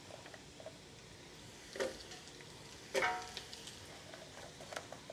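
Vegetables frying in a pan with a faint, steady sizzle. Two sharp clinks against the pan, about two and three seconds in, and a few lighter ticks near the end.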